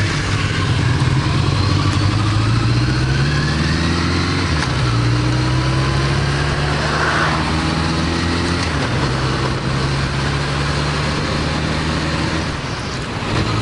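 Honda CB1100EX's air-cooled inline-four engine on the move, heard on board with wind noise on the microphone: the engine note climbs, drops at a gear change a little over four seconds in, climbs again, shifts once more near the nine-second mark, then runs steady.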